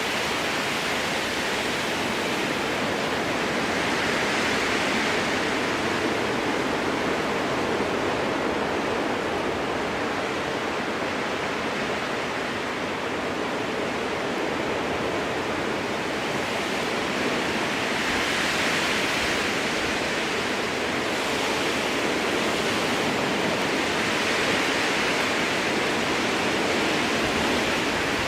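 Strong wind blowing through conifer trees: a steady rushing noise that swells and eases in slow gusts several times.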